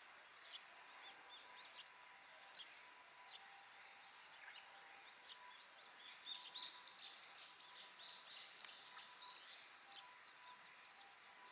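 Faint Eurasian tree sparrow chirps: scattered short, sharp chirps, with a run of about nine quick repeated calls a little past the middle, typical of a young sparrow begging for food.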